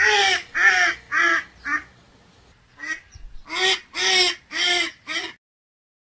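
A duck quacking: a quick run of about four quacks, a short pause, then about four more.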